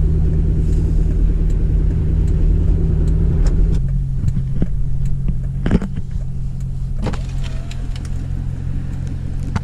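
Chevrolet Corvette V8 running while driving slowly, heard from inside the car. About four seconds in the engine note drops to a lower steady pitch and stays there.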